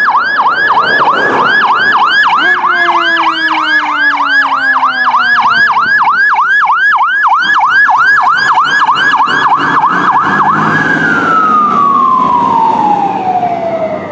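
Fire engine's siren on a fast yelp, about four up-and-down sweeps a second, then for the last few seconds its pitch falls steadily as it winds down and fades.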